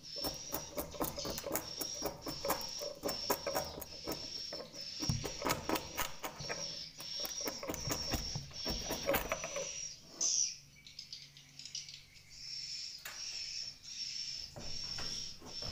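Swiftlets' high, short chirps repeating about twice a second, over rapid clicking. For the first ten seconds there is also busy scraping and rustling, which stops about ten seconds in.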